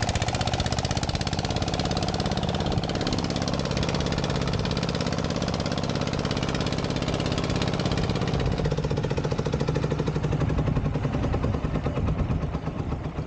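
Motorboat engine running steadily with a rapid, even knocking beat, a little quieter near the end.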